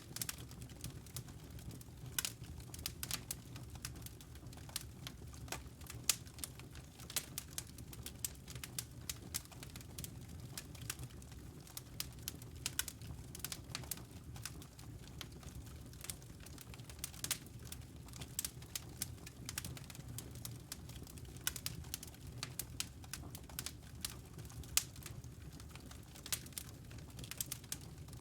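Wood fire crackling steadily, with many small irregular pops and snaps over a low steady rumble of the flames.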